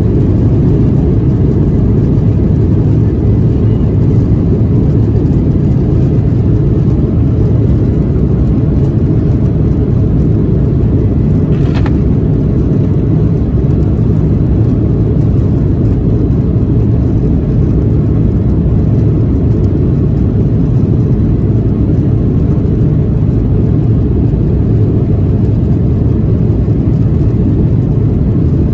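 Steady low drone inside the cabin of a Boeing 737-800 in flight, from its engines and the air rushing past the fuselage. A single faint click comes about halfway through.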